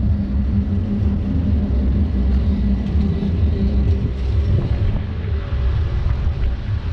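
Steady low rumble and rush of a river rapids ride heard from aboard a bouncing spinning raft, as the boat sets off along the water channel.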